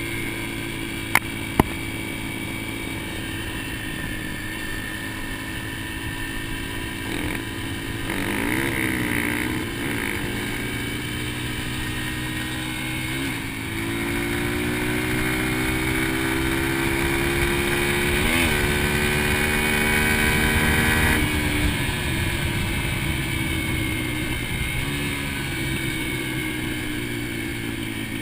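Dirt bike engine running as the bike is ridden, revs rising and falling with brief dips, then held higher for several seconds before easing off. Two sharp clicks come about a second in.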